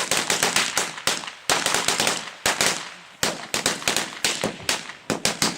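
Firecrackers going off in a rapid string: sharp, irregular cracks several times a second, with a brief lull about three seconds in.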